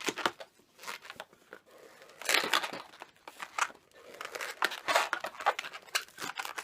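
Latex modelling balloons rubbing and squeaking against each other and against the hands as they are twisted and wrapped. The sound comes in short, irregular scrapes, thickest about two seconds in and again around five seconds in.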